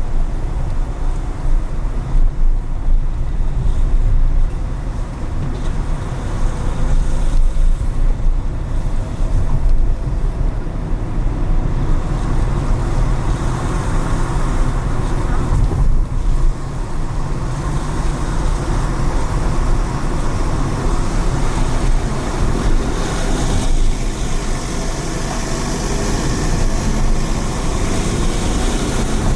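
Car driving on rain-wet city streets: a steady low rumble of road and engine, with tyre hiss from the wet pavement that grows louder over the last several seconds.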